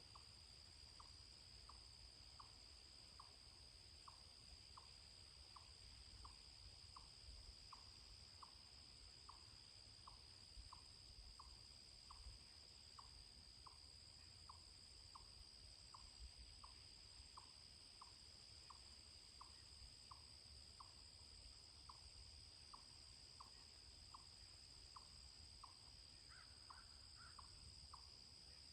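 Faint outdoor ambience: a distant bird repeats a short, falling call about one and a half times a second, over a steady high insect drone.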